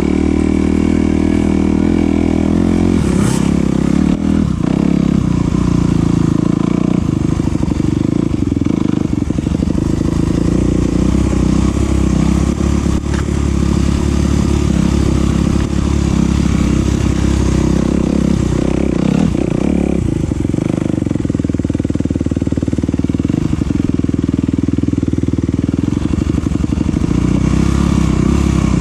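Enduro dirt bike engine running loud and continuously as the bike is ridden.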